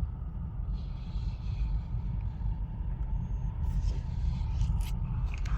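Low steady rumble of a Honda Fit heard from inside its cabin, with a few faint clicks between about three and a half and five and a half seconds in.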